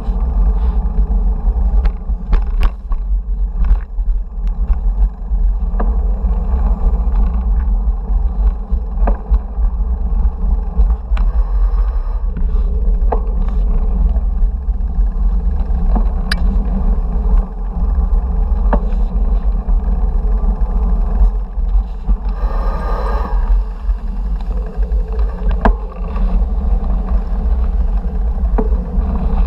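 Wind buffeting and road rumble picked up by an action camera on a moving bicycle, a steady deep rumble with scattered knocks from bumps. A brief hiss passes about two-thirds of the way through.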